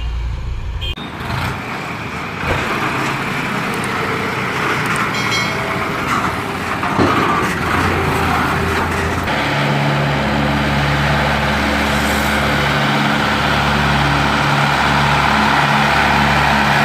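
Tractor diesel engine running under load while pulling a heavily loaded sugarcane trolley. About halfway through, a steady low engine note comes to the fore and holds.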